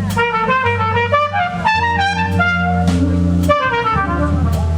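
Jazz ensemble playing live, a brass horn leading with quick runs of notes over held low bass notes.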